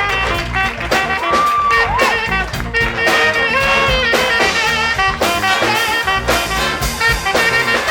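Military big band playing a funk tune live, with a brass section over drum kit and bass. A few sliding, bent notes come about one to two seconds in.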